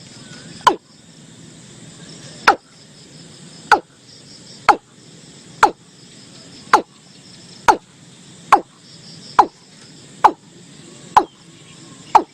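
Watercock calling: a series of short, knocking notes that each drop quickly in pitch, about one a second, speeding up again near the end. Faint insects chirr steadily beneath.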